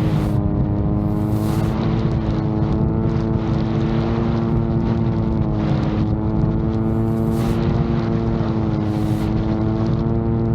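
VTOL drone in flight, its motor and propellers droning steadily with a slight waver in pitch. Gusts of wind buffet the microphone several times.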